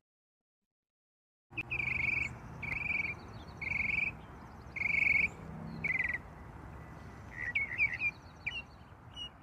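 Birds calling over a steady low background, starting abruptly about a second and a half in after silence. First comes a series of five drawn-out calls about a second apart, then a flurry of short chirps near the end.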